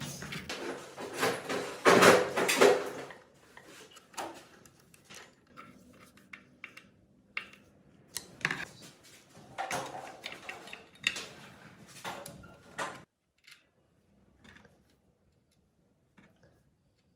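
Metal parts and hand tools clinking and knocking during engine work, busy for about thirteen seconds and then dying away to a few faint clicks.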